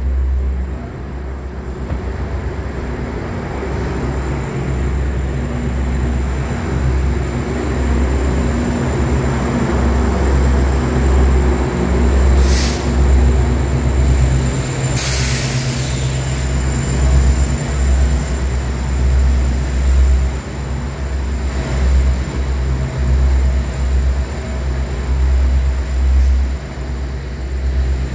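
Diesel GO Transit commuter train with a steady low rumble and engine drone, growing slightly louder over time. Two short hisses come about twelve and fifteen seconds in.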